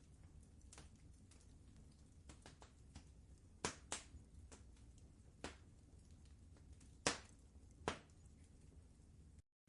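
Wood fire crackling in a fireplace: irregular sharp pops and snaps over a low steady rumble, the loudest pops about four seconds in and around seven to eight seconds. The sound cuts out briefly just before the end.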